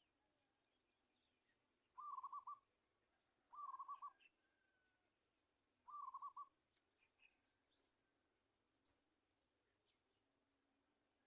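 A bird gives a short, rapidly pulsed call three times, each about half a second long, with faint higher chirps from other birds and one sharp high note near the end.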